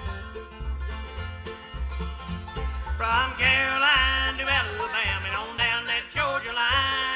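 Live bluegrass band playing a country song, with banjo and a bass thumping out a steady beat; a wavering lead melody line comes in about three seconds in.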